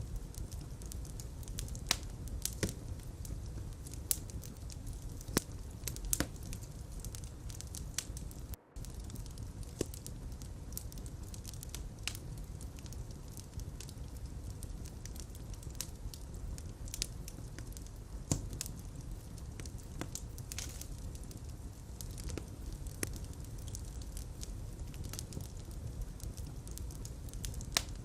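Fireplace fire burning with a steady low rumble and irregular sharp crackles and pops. The sound cuts out for a split second about nine seconds in.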